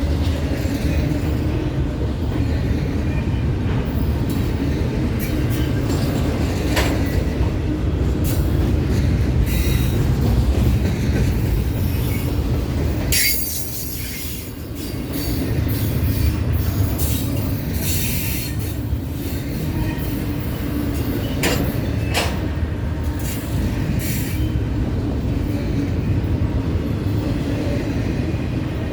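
CSX freight train cars rolling past: a steady rumble of wheels on rail, with repeated clicks and brief squeals from the wheels. It goes briefly quieter about 13 seconds in.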